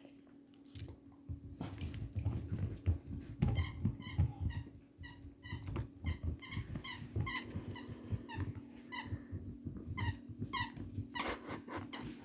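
A dog chewing a squeaky toy, squeezing out many short, irregular squeaks between gnawing and chomping.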